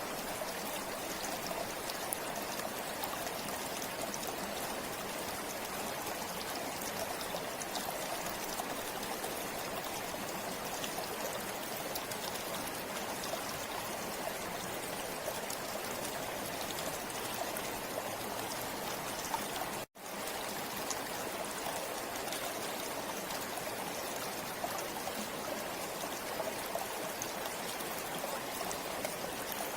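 River water flowing steadily over rocks, a continuous rush with small splashes and trickles. The sound cuts out for an instant about twenty seconds in, then resumes unchanged.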